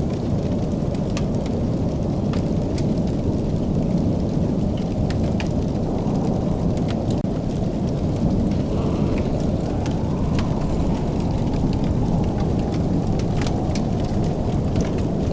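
Wood fire crackling in a fireplace: a steady low rushing sound with scattered sharp pops and snaps at irregular intervals.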